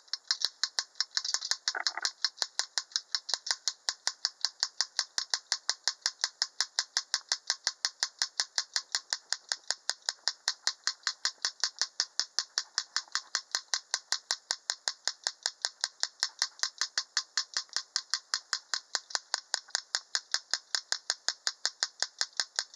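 Steady, even clicking or tapping, roughly five clicks a second, with a brief louder sound about two seconds in.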